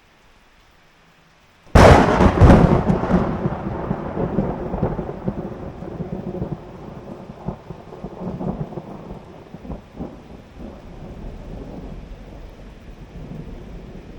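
Thunder in a rainstorm: after a faint hiss of rain, a sudden loud crack about two seconds in, then a long rolling rumble that slowly fades while the rain goes on.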